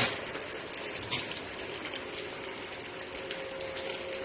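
Steady rain falling, an even hiss, with two sharper taps of drops close by, at the start and about a second in.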